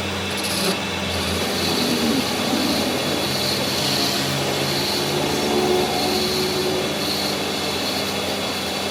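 A power tool working metal, running steadily without a break.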